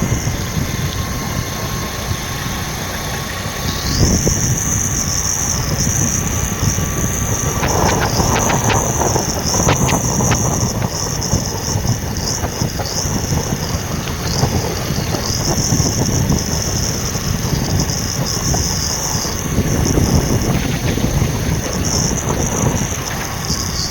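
A truck's engine running, a loud, steady rumble.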